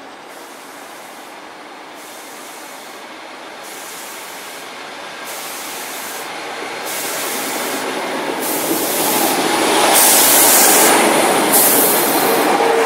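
First Great Western diesel multiple unit approaching along the platform and passing close by. Its engine and wheel noise builds steadily and is loudest about ten seconds in, as the coaches go past.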